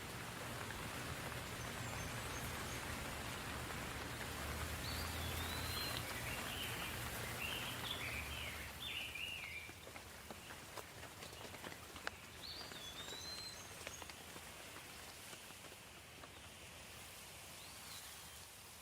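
Steady light rain falling, a soft even hiss. A bird calls over it several times with short curved whistled chirps, with a brief run of song about six to nine seconds in, and a low rumble sits under the first half.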